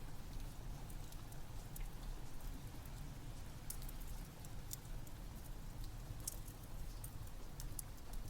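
Steady rain together with a crackling wood fire: a constant low rumbling hiss with frequent sharp pops scattered through it.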